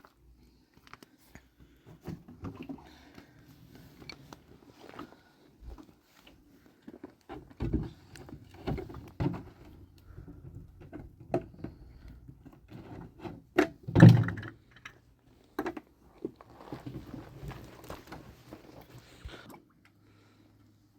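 Scattered knocks and thuds, irregularly spaced, the loudest a heavy thump about fourteen seconds in, with a few seconds of rustling near the end.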